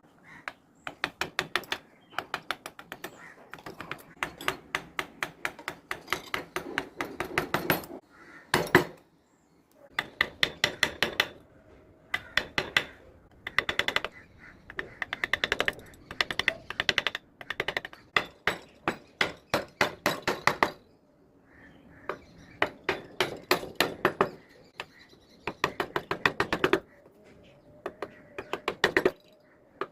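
Carving chisel driven into teak by quick mallet taps: runs of sharp knocks, about seven a second, with short pauses between runs.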